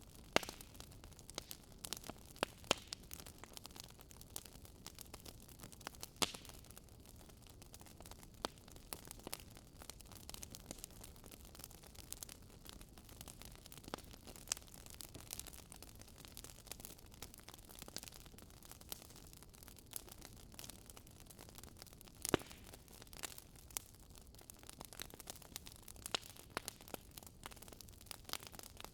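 Wood fire in a fireplace crackling: irregular sharp pops and snaps of burning firewood over a faint steady hiss of the flames.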